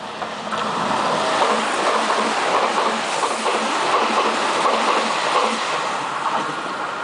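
Meitetsu Panorama Super limited express electric train running past at close range. The wheel and running noise swells over the first second or two, holds, then eases off near the end.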